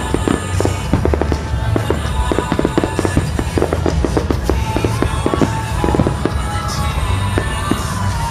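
Fireworks display: a dense, rapid run of crackling pops and bangs, with no let-up.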